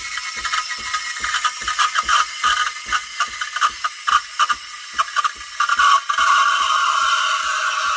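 Espresso machine's steam wand frothing milk. It sputters in rapid regular pops, about four a second, then about five and a half seconds in settles into a steady, loud hissing whine.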